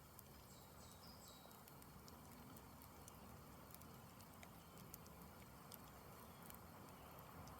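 Campfire burning down: faint, scattered crackles and small pops from the burning wood over a quiet low hiss.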